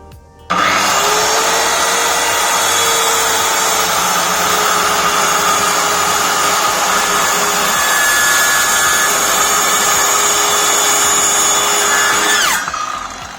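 Stanley SC16 1600 W circular saw switched on about half a second in and running at full speed with a steady whine for about twelve seconds, then switched off and winding down, its pitch falling, near the end.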